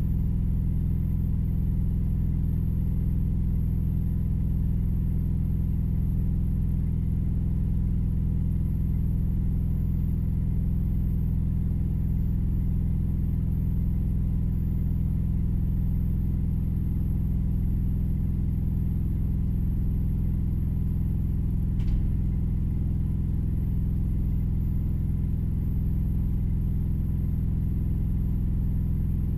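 Steady low hum of an idling truck engine heard from inside the cab, with one brief click about 22 seconds in.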